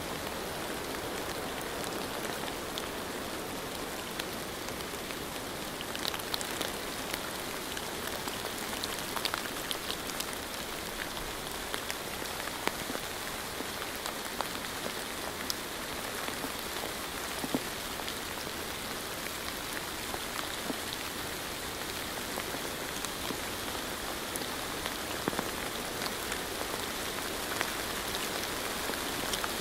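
Steady rain falling, a constant hiss with many separate drops ticking here and there.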